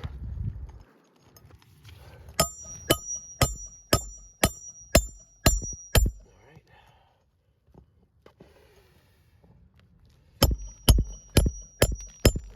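A steel hammer driving a roofing nail through a metal nail-setting tool into a shingle. The blows ring sharply and come in two runs: about eight strikes at roughly two a second, a pause, then about six quicker strikes near the end.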